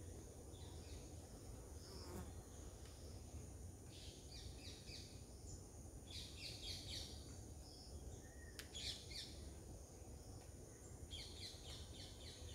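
Faint bird calls: a few short runs of rapid, high chirps, starting about four seconds in, over a low steady background rumble.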